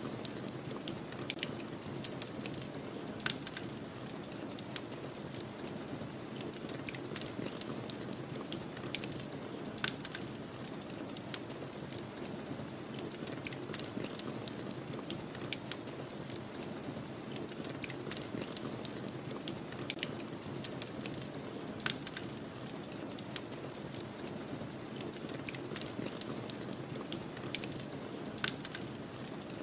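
Wood fire crackling, with sharp, irregular pops scattered throughout, over the steady low rush of a snowstorm.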